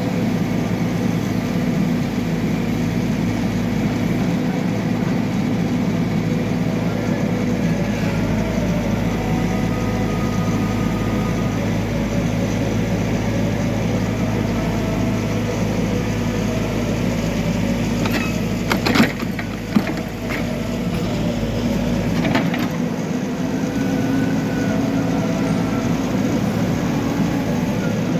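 Backhoe loader's diesel engine running steadily under working load, with a few sharp knocks about two-thirds of the way through.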